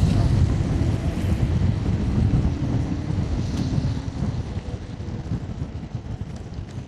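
Wind buffeting the camera microphone while riding an electric scooter: a low rumbling noise that fades steadily through the second half.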